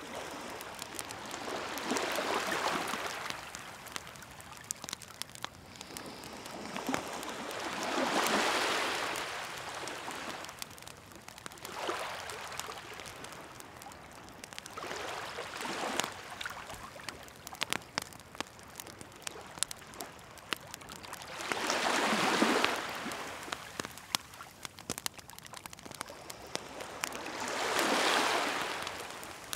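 Waves washing in on the shore, each swelling and fading every few seconds, the largest about 8, 22 and 28 seconds in. Over them a bonfire crackles and pops steadily with many sharp snaps.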